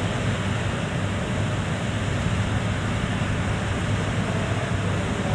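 E3 series shinkansen train standing still, giving a steady low hum under a constant rushing noise.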